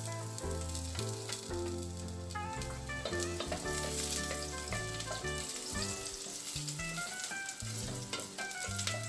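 Chopped garlic sizzling as it sautés in hot cooking oil in a wok, with some stirring, under background music.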